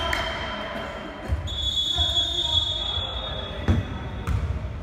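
Basketball bouncing on an indoor court floor, a run of low thudding bounces with a couple of sharper knocks near the end, in a gym's echo.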